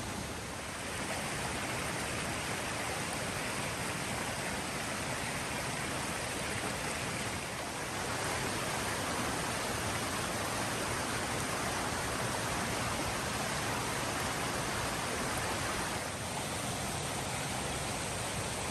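Steady rushing of a forest creek's flowing water.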